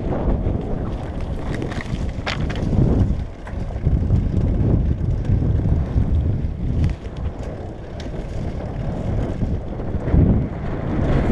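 Wind buffeting the microphone as a rough, fluctuating low rumble, with scattered light clicks and rattles over it.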